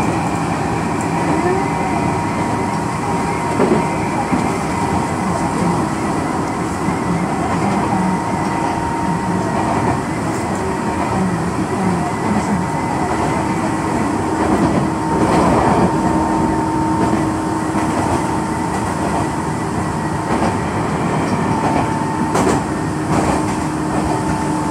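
Tobu electric commuter train running along the line, heard from inside the front car: a steady rumble of wheels on rail under a steady whine, with a couple of sharper knocks near the middle and again near the end.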